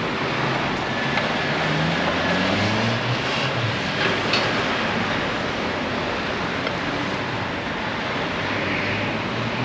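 Steady, dense city traffic noise, with one vehicle's engine rising in pitch about two to three seconds in.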